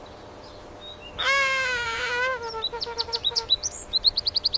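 A bird calling: one long, wavering call starting about a second in, which is the loudest sound. It is followed by a quick run of short, high, rising chirps, about five a second.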